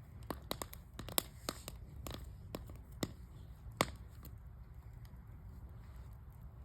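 Wood fire in a fire barrel crackling, with irregular sharp pops that come thick in the first few seconds and then thin out.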